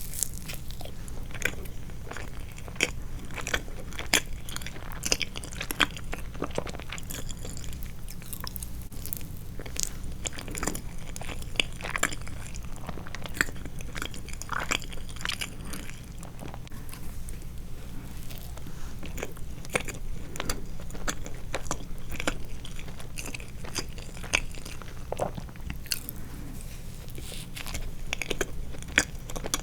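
Close-miked chewing and mouth sounds of a person eating soft sweets, with many short clicks and smacks throughout, over a steady low hum.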